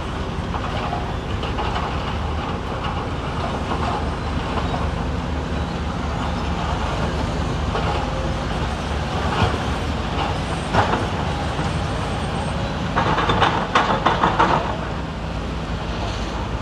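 Diesel engine of heavy earthmoving machinery running steadily, with a few sharp metallic knocks and a burst of clanking near the end.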